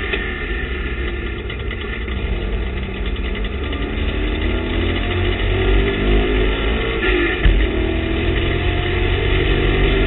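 TVR Tuscan race car's engine heard from inside the cockpit under racing load, its pitch rising and falling with the revs. A single thump about seven and a half seconds in.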